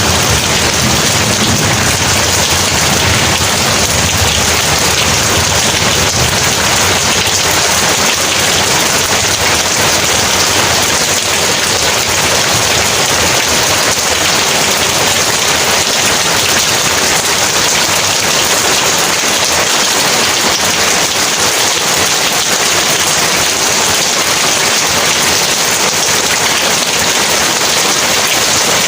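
Heavy rain falling in a steady, dense hiss. A low thunder rumble fades out over the first several seconds.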